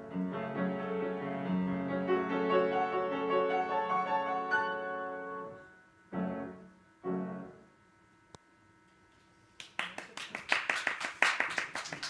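Piano music comes to its close with two short final chords. After a few seconds of quiet, an audience starts applauding near the end.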